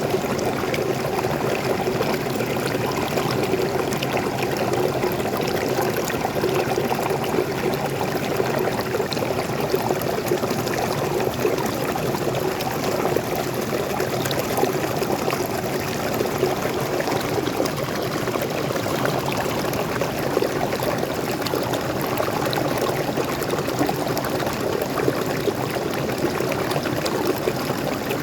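Forest waterfall: freshwater pouring and splashing in a steady, unbroken rush.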